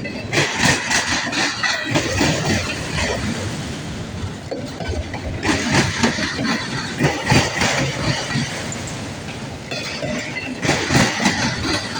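Long CSX freight train rolling past, its cars' wheels clattering over the rail joints. The clatter comes in three rounds of quick clacks with steadier rolling between them.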